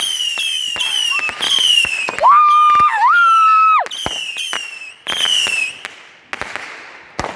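Fireworks going off close by: a rapid string of short, slightly falling whistles with sharp bangs and crackles between them. About two seconds in, a long steady high-pitched whistle holds for about a second and a half and is the loudest sound.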